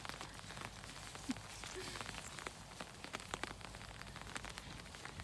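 Steady rain, with many sharp, irregular drop ticks on an umbrella held overhead.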